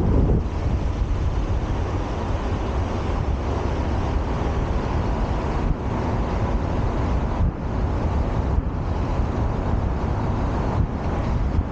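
Steady wind rumble on the microphone mixed with street traffic noise.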